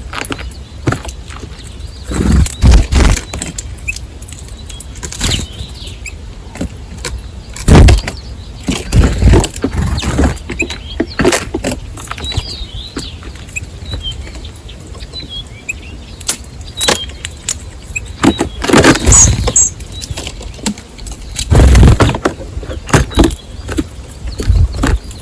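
Faint high chirps of small birds, over a dozen or so loud low rumbling bursts that come and go every second or two.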